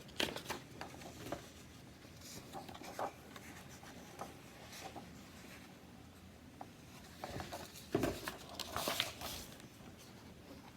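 Faint rustling and scattered light taps of paper as a picture book's pages are handled, with a louder cluster of rustles about eight seconds in.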